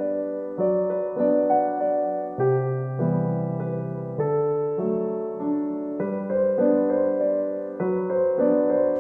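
Background music: a gentle solo piano piece, chords and melody notes struck about every half second.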